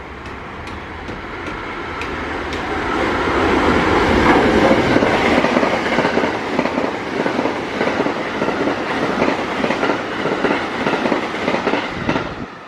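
JR Kyoto Line electric train running along the platform track. It grows louder over the first few seconds, then keeps up a steady rumble with a fast, even clatter of wheels over the rail joints. The sound cuts off abruptly near the end.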